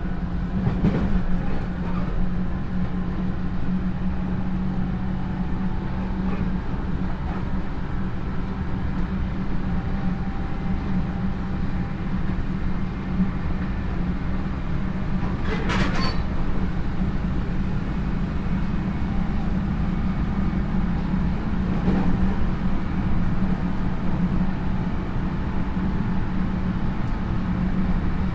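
Running sound of a JR 311 series electric multiple unit's motor car (KuMoHa 311-2) travelling at speed: a steady rumble of wheels on rail with a low hum. A few sharp clacks over rail joints or points break through, the loudest about halfway through.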